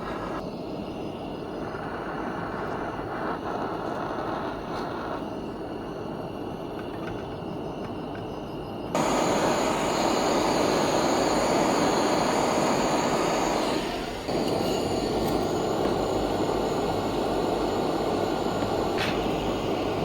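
A power tool running steadily, growing louder about nine seconds in, with a brief dip around fourteen seconds.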